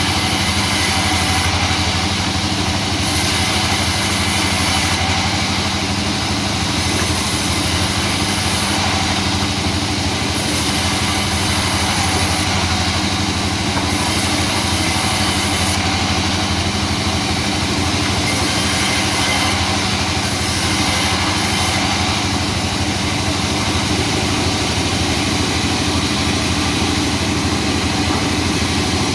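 Sawmill machinery running steadily, with a continuous engine hum.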